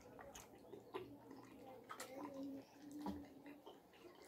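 Quiet mouth sounds of a person chewing mutton: a few sharp wet clicks and smacks spread over a few seconds.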